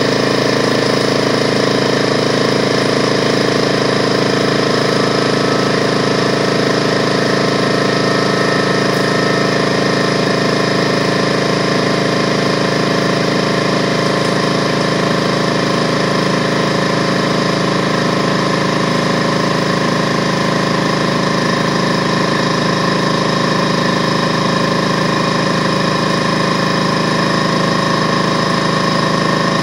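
DeWalt 4.5-gallon electric air compressor running steadily, its motor and pump building pressure in the tank.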